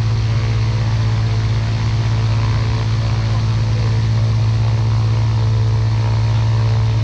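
Ultralight aircraft engine and propeller running steadily at constant power, a loud, even drone with a strong low hum.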